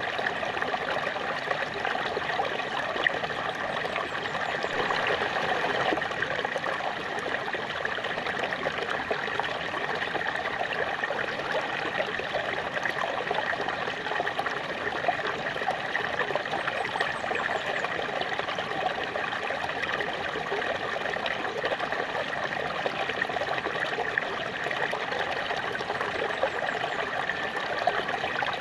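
Small waterfall splashing and trickling steadily, a dense even rush of falling water with fine bubbling detail.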